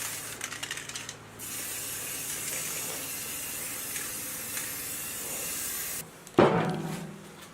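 Steady spraying hiss that stops abruptly about six seconds in, followed by a single loud knock that rings briefly.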